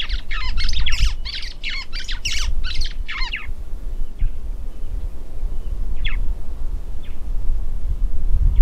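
A bird calling in a fast run of harsh downward-sliding calls, about three a second, that breaks off about three seconds in, followed by a few single calls later on. A steady low rumble runs underneath.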